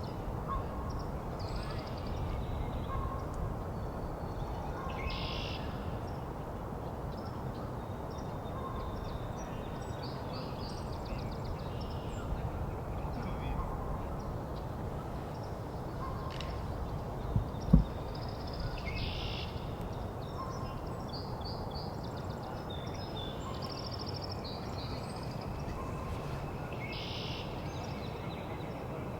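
Mixed spring birdsong: a northern cardinal singing and switching between song themes, with an American goldfinch and other songbirds, over a steady low rumble. A single sharp knock a little past halfway is the loudest sound.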